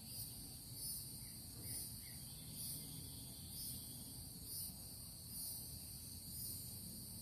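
Steady, high-pitched trilling from an insect chorus that swells about once a second, with three faint short chirps early on.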